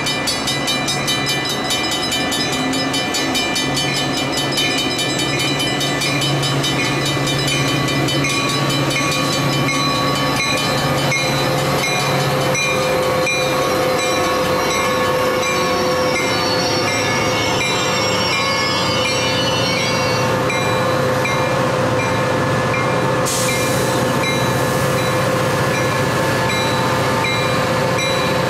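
Metra commuter train of bilevel coaches approaching and running past, a steady noise of steel wheels on the rails.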